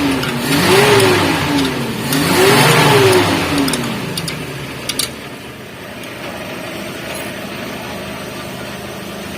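An engine revved up and back down about three times, each rev a smooth rise and fall in pitch, then dropping to a quieter steady hum from about five seconds in, with a couple of sharp clicks just before.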